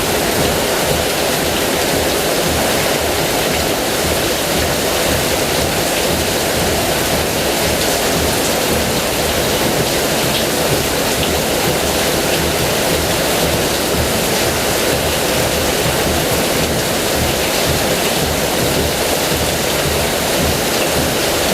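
Heavy rain falling steadily, a dense, even hiss with no break or change.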